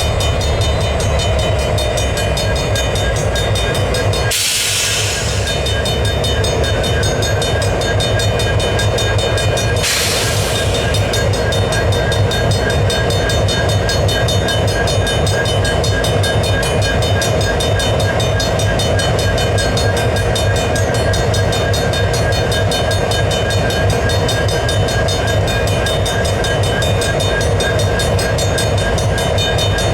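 Diesel freight train at an activated railroad crossing: the locomotive engine runs with a steady low rumble while the crossing bell rings rapidly throughout. Two short bursts of hiss come about four and ten seconds in.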